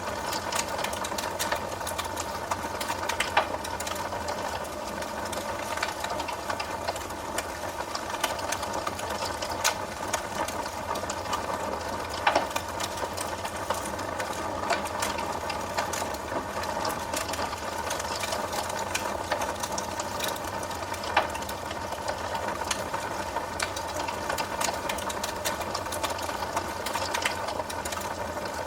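Wood fire burning in a fireplace, crackling steadily with a dense run of small snaps over a steady hiss, and a louder pop about every nine seconds.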